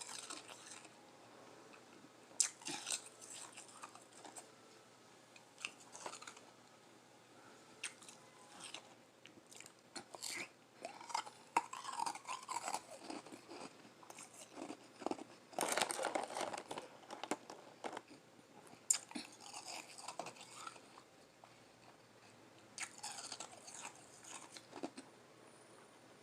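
Close-up chewing of lime-flavoured Igloo shaved ice: bites and soft crunching in irregular bursts, the busiest spells in the middle, with quieter pauses between.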